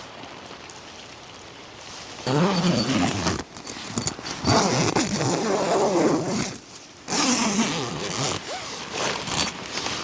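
A zipper is pulled in three long rasping runs starting about two seconds in, with a steady patter of rain underneath.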